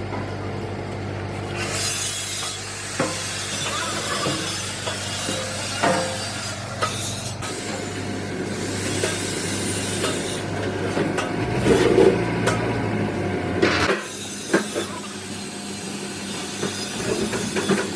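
Workshop noise during truck body repair: scattered metal clinks and knocks over a steady low hum and a hissing background, with a louder spell about two-thirds of the way through.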